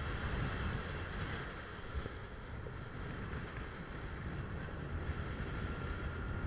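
Wind and road noise rushing over the microphone of a moving motorcycle, a steady gusting rumble.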